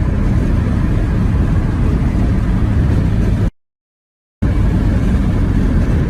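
Steady road and engine rumble of a moving car, picked up by a dashcam. It cuts to silence for about a second a little past the middle, then resumes unchanged.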